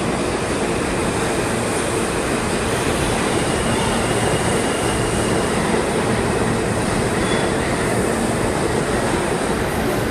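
R46 subway train rolling slowly into an underground station: a steady loud rumble and clatter of steel wheels on the rails, with a faint high wheel squeal now and then.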